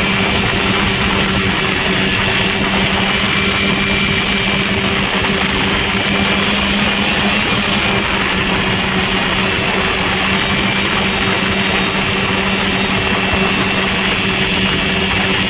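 Rotax 503 two-stroke twin engine of a Lynx snowmobile running at steady revs, its note holding one constant pitch without rising or falling.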